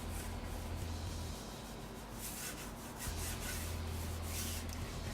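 Cloth rubbing in repeated strokes over the painted PC case, with a low hum that comes and goes.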